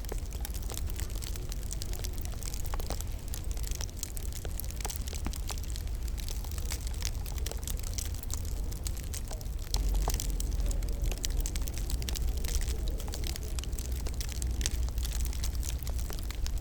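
Wood fire crackling in a fireplace: a dense, irregular scatter of small pops and snaps over a steady low rumble, which gets a little louder about ten seconds in.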